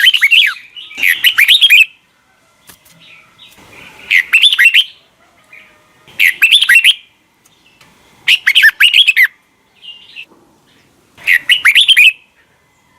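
Red-whiskered bulbul singing: short, quick phrases of clear whistled notes, each under a second, repeated about every two seconds, five phrases in all.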